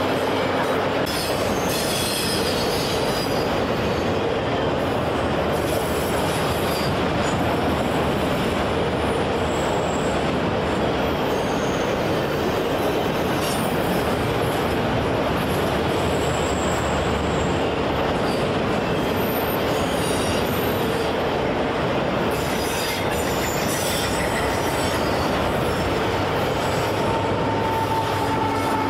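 A long freight train rolling past: a steady rumble and clatter of steel wheels on rail, with scattered sharp clicks and brief high wheel squeals now and then.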